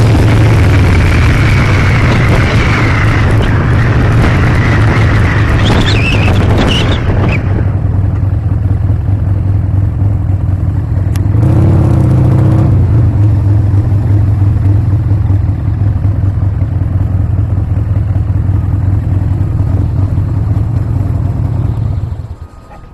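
Harley-Davidson Sportster's V-twin engine running with heavy wind noise, then slowing to a lower, steadier run with one brief rev about halfway through. The engine cuts off suddenly shortly before the end.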